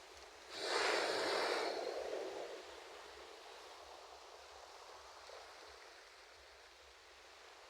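A single ocean wave breaking, a loud rush about half a second in that washes out and fades over about two seconds, then a soft steady surf hiss.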